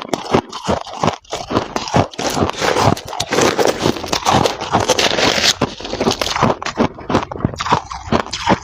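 Freezer frost being crunched and scraped: a rapid run of sharp, crisp crunches, thickest in the middle.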